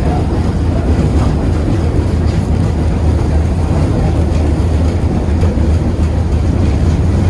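KTM-8KM tram in motion: a steady, loud rumble of the wheels and running gear on the rails.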